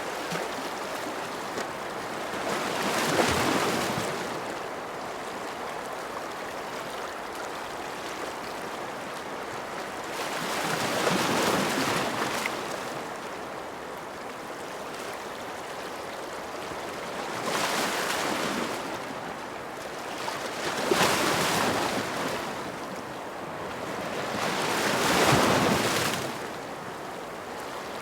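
Ocean surf: a steady wash of water noise with about five waves swelling and breaking, several seconds apart.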